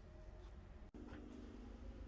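Near silence: faint room tone with a low hum, briefly cut off about a second in.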